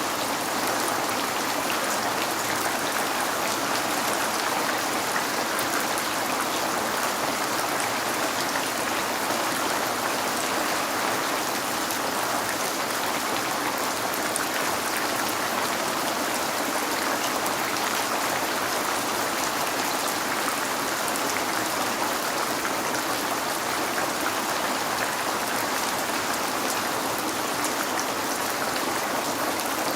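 Steady rain falling on a window pane: an even hiss with many small drop ticks, unchanging throughout.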